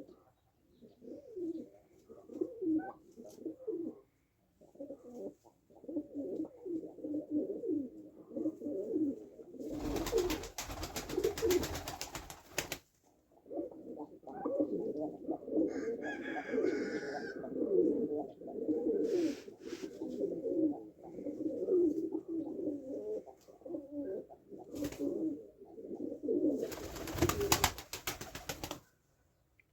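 Domestic pigeons cooing continuously, several birds overlapping. Two longer bursts of noise break in, one about a third of the way through and one near the end.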